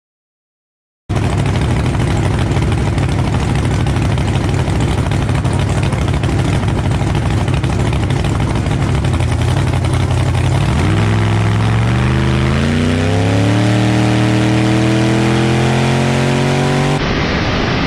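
A monster truck's engine heard from inside the cab, after about a second of silence: a loud, rough rumble, then about ten seconds in its pitch starts climbing steadily as the truck accelerates hard.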